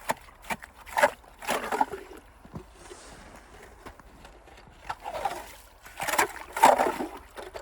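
Water and slush sloshing and splashing in a hole through lake ice, in several short splashes.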